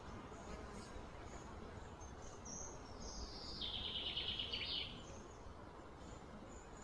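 A bird calls once, starting about two and a half seconds in: a high note sliding downward into a rapid trill that stops just before the five-second mark. Steady outdoor background noise runs underneath.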